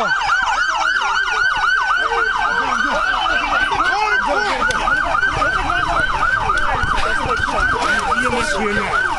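Police car sirens on the fast yelp setting, more than one sounding at once, sweeping up and down about five times a second.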